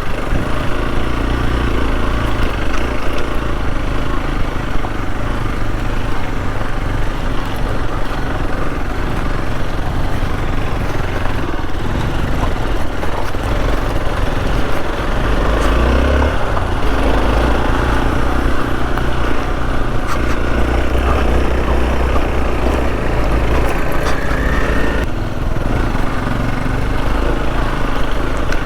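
Motorcycle engine running steadily while being ridden along a rough off-road trail.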